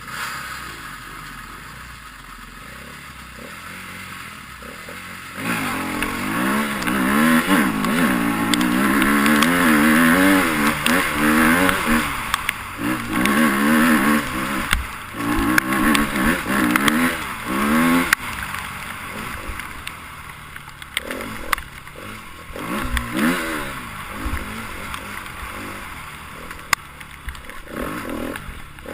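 Enduro motorcycle engine revving up and down again and again, its pitch rising and falling; it turns loud about five seconds in and eases off after about eighteen seconds, with shorter revs later and scattered sharp clicks.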